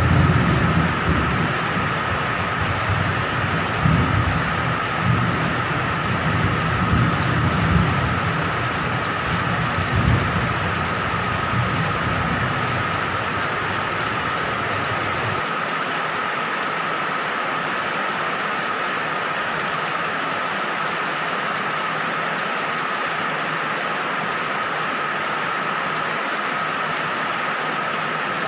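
Steady rain with low rolling thunder rumbling and swelling through the first half; the rumble stops about halfway through, leaving the rain alone with a steady high tone running beneath it.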